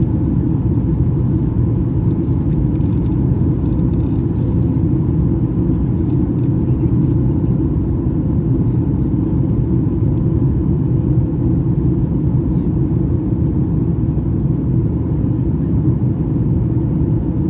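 Steady low rumble of a Boeing 737 MAX 8 airliner with its CFM LEAP-1B engines running, heard as cabin noise with a faint steady hum.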